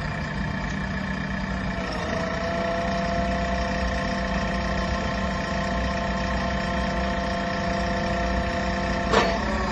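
2020 JCB 4DX backhoe loader's diesel engine running steadily. About two seconds in it gets slightly louder and a steady whine joins it. Near the end there is one sharp clack.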